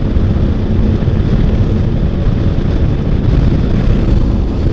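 Motorcycle riding at road speed: the engine runs steadily under a heavy rush of wind over the microphone.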